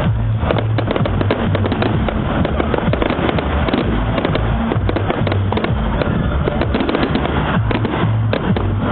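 Fireworks display going off in a dense, continuous barrage of sharp cracks and bangs, with music underneath.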